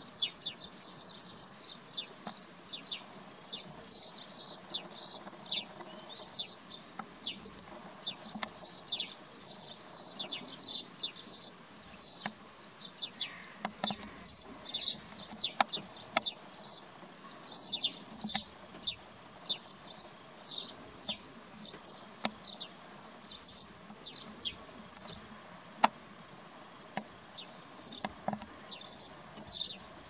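Birds chirping: many short, high chirps in quick, irregular clusters. One sharp click sounds late on.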